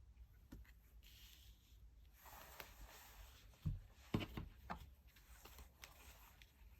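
Tarot cards handled on a table: a quiet papery rustle, then a few light taps and two sharper knocks as cards are set down.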